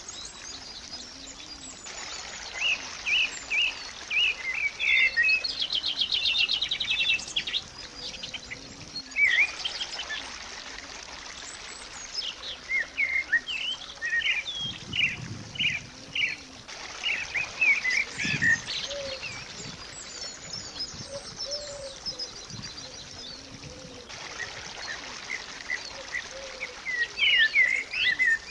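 Small songbirds chirping and singing, a steady run of short high chirps with a rapid trill about six seconds in.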